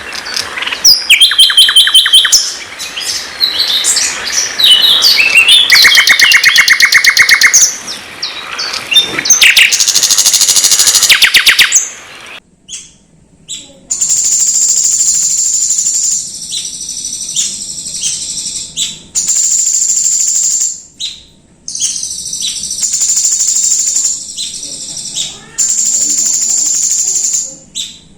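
Songbird singing loudly: a varied run of clear whistles and fast repeated trills. After a short break about twelve seconds in, a different sustained, very high trill takes over, cut by short chips and brief pauses.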